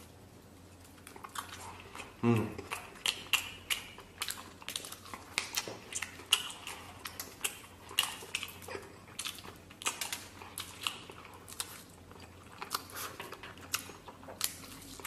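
Close mouth sounds of a man biting into and chewing crispy fried chicken, with many sharp crunching clicks. A short vocal sound from the eater comes about two seconds in.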